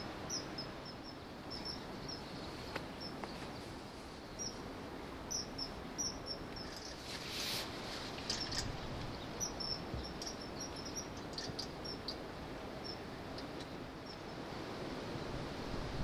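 Bird chirps: many short, high notes, singly and in quick runs, scattered throughout over a steady background hiss, with a brief noisy rush about halfway through.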